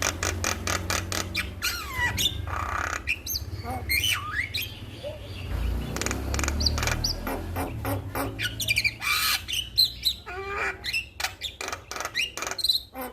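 Male Javan myna singing a long varied song of rapid clicks and rattles, harsh grating screeches and short rising and falling whistles.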